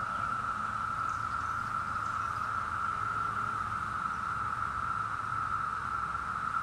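Chorus of periodical cicadas: a steady, even, high-pitched drone from many insects singing at once, holding without a break.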